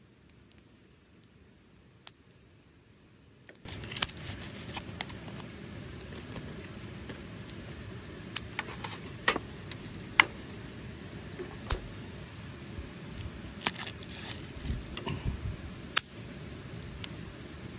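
Faint ticks at first, then from about three and a half seconds in a wood campfire crackling steadily with scattered sharp pops.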